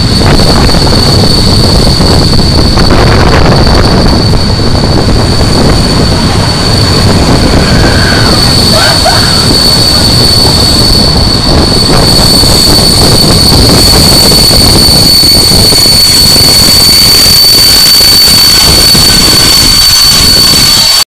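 Heritage train of old passenger coaches hauled by an FS E646 electric locomotive, heard from an open coach window: loud wheel-on-rail and wind noise with a steady high whine over it. The sound cuts off suddenly near the end.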